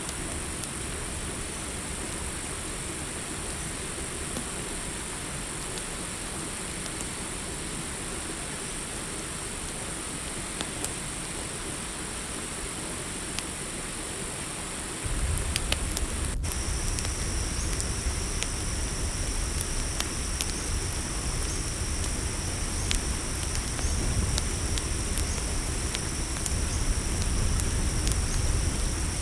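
Campfire crackling with scattered sharp pops over a steady, high-pitched chorus of crickets. About halfway through, a low rumble and a second, lower insect trill join in.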